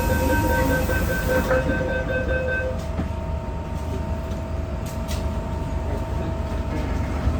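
MTR M-Train door-closing warning sounding a rapid, pulsing beep for nearly three seconds, then stopping, with a knock or two as the doors shut. The train's steady low rumble and a faint steady tone run under it.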